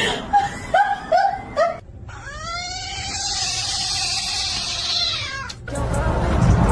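Cat meowing: four short meows in the first two seconds, then one long drawn-out yowl lasting about three seconds. Near the end a louder, noisy stretch follows.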